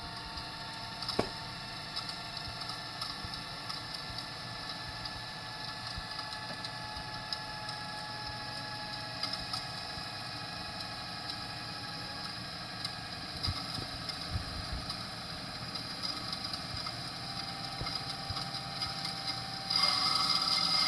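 VCR rewinding a VHS tape: a steady motor whine made of several held tones, with a click about a second in. The sound steps up louder shortly before the end. The rewind runs without any odd noise.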